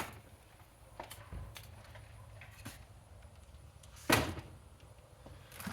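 Handling noise from unpacking: a few light clicks and taps, then one loud knock about four seconds in, like a box or a vacuum part being set down or bumped.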